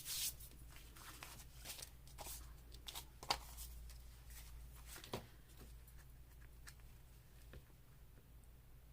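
Paper being handled and pressed down: soft rustling with scattered light taps and clicks, the sharpest about three seconds in and about five seconds in.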